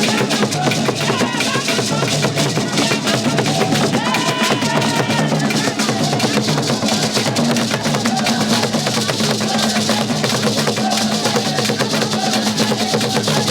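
Loud music driven by dense, continuous drumming and percussion.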